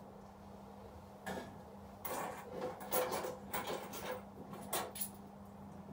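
Soft clinks and rattles of coins being handled, a string of short clicks over a few seconds, over a faint steady electrical hum.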